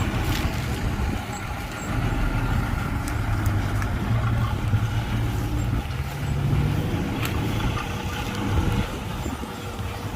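Heavy diesel engine of earthmoving or haulage machinery running steadily, its pitch rising briefly about two-thirds of the way through as it revs, with a few scattered clanks.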